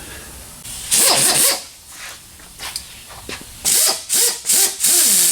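Cut-off wheel cutting in short bursts, about five, with the wheel's pitch falling away as it slows between them.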